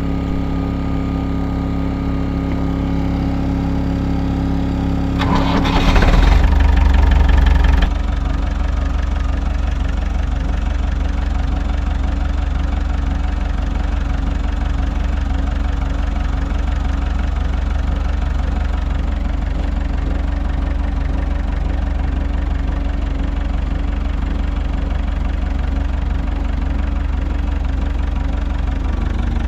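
A generator running steadily, then a tractor engine cranking for about two seconds and catching, settling into a steady idle with a low rumble alongside the generator.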